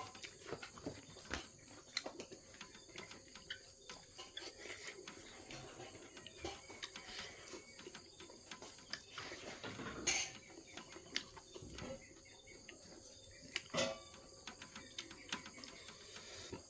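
Close-miked mouth sounds of a person eating: chewing with many small wet clicks and smacks, and a couple of louder ones about ten and fourteen seconds in. A faint steady high-pitched tone runs underneath.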